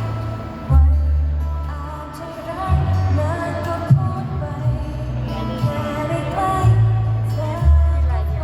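Thai pop song performed with a female lead vocal over a band with a heavy bass line.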